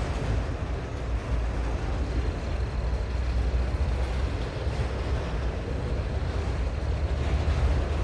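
Long CSX freight train rolling slowly past, a steady low rumble from its cars on the rails.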